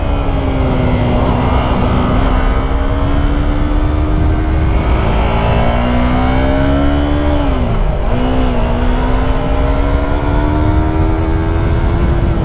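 Yamaha YZF-R3's 321 cc parallel-twin engine heard onboard while riding twisty road, holding high revs; about two-thirds of the way through the revs fall away sharply, then climb again. A steady wind rumble runs underneath.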